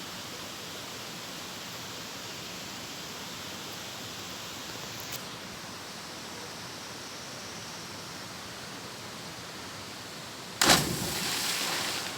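Steady rushing of a waterfall. About ten and a half seconds in, a loud sudden burst of noise cuts in and stays raised for about a second and a half.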